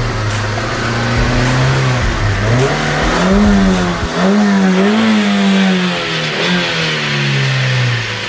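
Car engine revving, its pitch rising and falling again and again.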